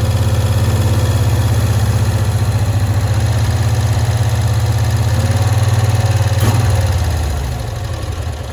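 1965 Cushman Truckster engine running steadily with an even low pulse, after a stuck lean valve on its carburetor was freed. A short click comes about six and a half seconds in, and the engine then runs a little quieter near the end.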